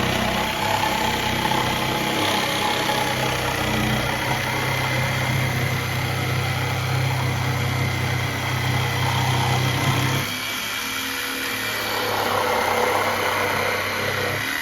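A machine motor running steadily with a low hum, its tone shifting about ten seconds in.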